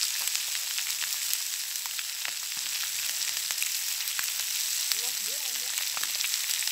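Chicken thighs sizzling in a frying pan over a wood campfire: a steady high hiss with many small sharp pops throughout.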